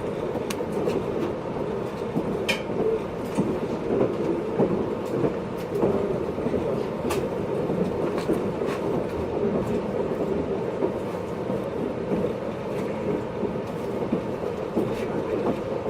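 Running noise heard inside the motor car MoHaNe 582-106 of a JR East 583 series train: a steady rumble from the wheels and motors on the track, with a few sharp clicks at irregular moments.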